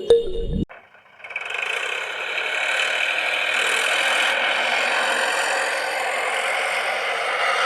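A toy vehicle's small motor and plastic gears whirring steadily, starting about a second in after the music cuts off.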